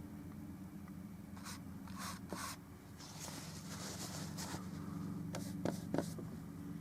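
Oil-paint brush strokes scratching and dabbing on a painting surface in short separate strokes, with two sharper taps near the end, over a steady low hum.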